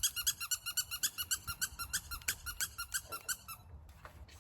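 A squeaky toy squeezed rapidly, a fast run of short, high squeaks at about seven a second; it pauses briefly about three and a half seconds in, then starts again.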